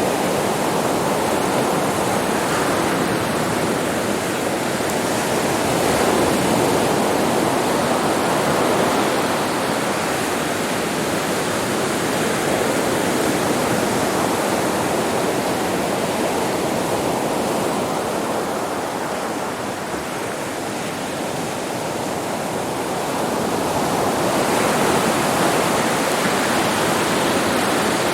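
Ocean waves washing onto a beach: a continuous rush of surf that swells and ebbs slowly, easing off about two-thirds of the way through and building again near the end.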